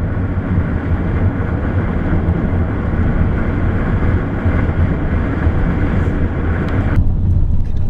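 Vehicle driving, heard from inside: a steady low road-and-engine rumble with a hiss of road and air noise over it, the hiss cutting off suddenly about seven seconds in.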